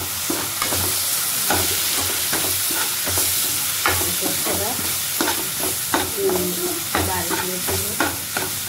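Tomato and onion paste sizzling in hot oil in a kadhai, with a steady hiss, while a steel spoon stirs and scrapes it, giving frequent irregular clicks and scrapes against the pan. This is the masala base being fried.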